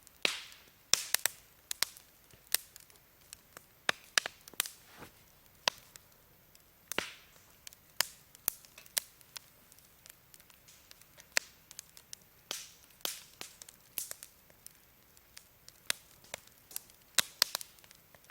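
Wood campfire crackling: irregular sharp pops and snaps of burning firewood, a few with a brief hiss after them.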